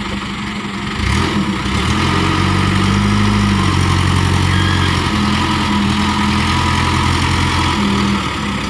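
Engine of an overloaded palm-fruit truck working hard under load. Its note rises about a second in, holds steady, and eases off near the end.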